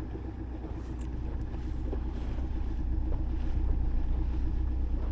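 Fishing boat's motor running steadily under way, a low rumble that grows slightly louder, with wind buffeting the microphone.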